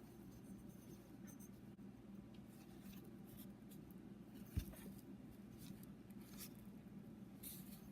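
Faint scraping and rubbing of a piston's oil control ring being slid around its groove by hand, with one dull knock about halfway through.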